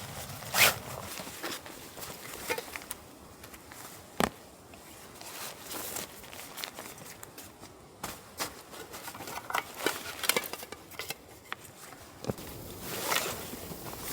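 Irregular handling sounds of camping gear: short rustles and scrapes with scattered clicks, including a sharp knock just over half a second in and another about four seconds in.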